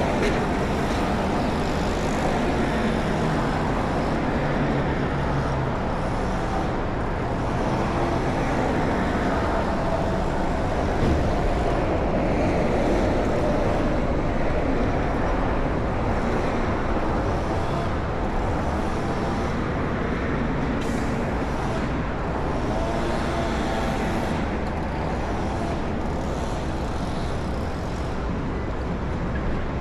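Steady vehicle and road noise: a continuous low rumble and hiss with no sudden events.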